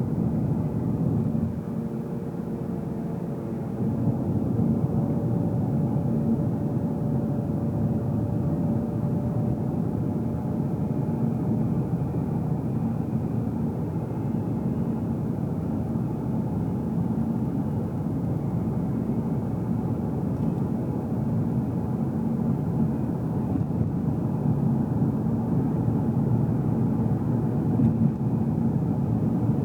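Car driving, heard from inside the cabin: steady engine and tyre road noise, a low rumble. It drops a little for a couple of seconds near the start, then rises again and stays even.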